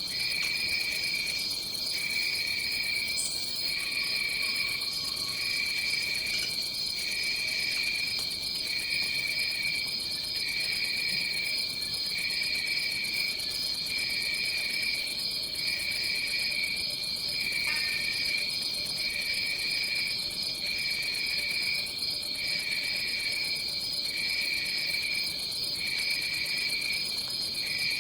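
Tropical forest insects: a continuous high trill, with a lower chirping that pulses on and off about every second and a half.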